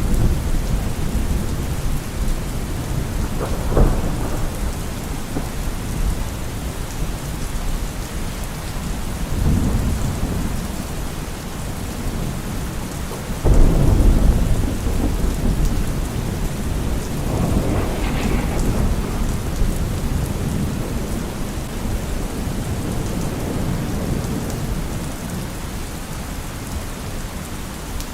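Steady rain with several rolls of thunder, the loudest breaking suddenly about halfway through.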